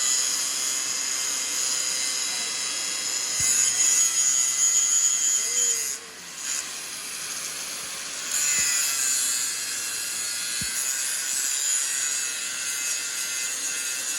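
Metal being machined or ground in a workshop: a steady high-pitched hiss with a faint ringing tone. It stops about six seconds in and starts again about two seconds later.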